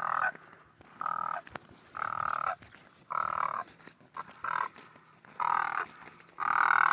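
Crane calls: about seven rattling, croaking calls, one roughly every second, each lasting under half a second.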